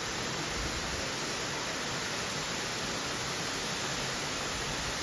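Steady rushing of Merriman Falls, a 40-foot waterfall in full spring flow.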